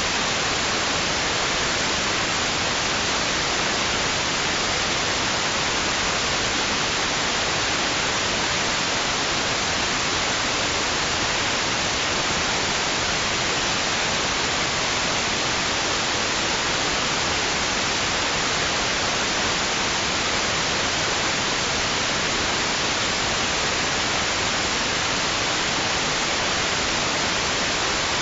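Steady white noise: an even, unchanging hiss with no rise or fall, brightest in the upper range.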